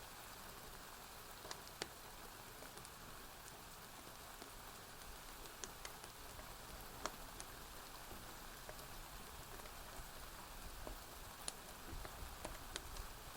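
Faint, steady hiss of rain with scattered sharp pops and crackles from a wood fire, irregularly spaced, a dozen or so.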